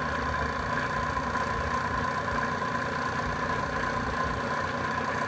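Milling machine running steadily with a constant whine, its cutter coping a 4130 chromoly steel tube in light passes of about 50 to 60 thousandths.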